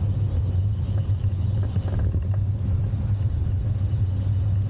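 Steady low rumble of wind buffeting a ride-mounted camera's microphone while cycling, with a few faint clicks about two seconds in.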